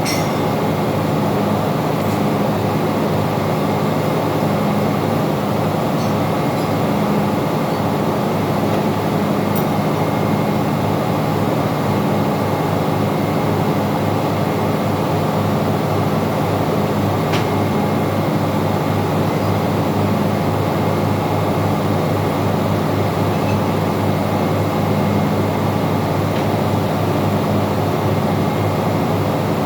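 Steady, loud din of ship's engine-room machinery running, with a low hum that pulses evenly throughout.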